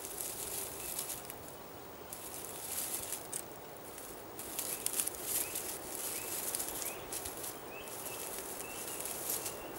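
Hedgehog rustling through dry leaf litter and twigs in irregular bursts. From about halfway, a bird gives short repeated chirps faintly behind it.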